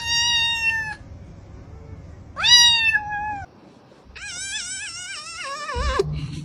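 Kitten meowing three times: a short steady high meow, then one that rises and falls, then a longer wavering meow that slides downward near the end.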